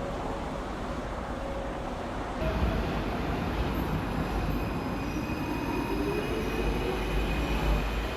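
Santiago Metro AS-02 metro train running between stations, a steady rumble of wheels on rail. About two seconds in it grows louder and a thin high tone joins. Through the middle a whine rises steadily in pitch.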